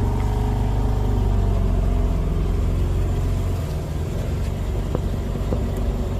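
BMW engine idling with a steady, deep exhaust rumble; it eases off slightly a little past halfway.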